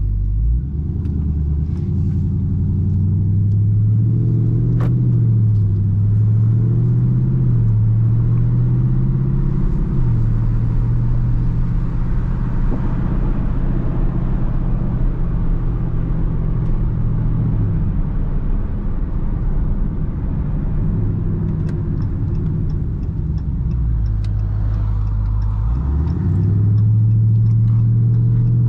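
2021 Dodge Charger Daytona 392's 6.4-litre HEMI V8 running while being driven. The engine note rises and falls several times with throttle and gear changes, holding steady in between, and climbs again near the end.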